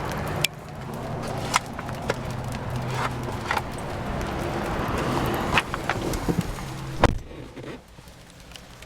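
Rain falling around the car with a steady low hum and scattered sharp taps, then a single heavy thump about seven seconds in, after which it turns much quieter.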